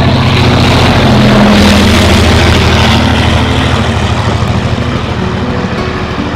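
Passenger train passing at speed: a rumbling rush with engine hum that swells to its loudest about a second and a half in, then slowly fades.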